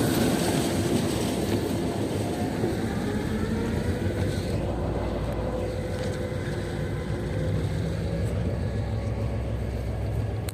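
Diesel train running along the track: a steady rumble and rail noise, with a faint steady hum. The low rumble grows stronger near the end.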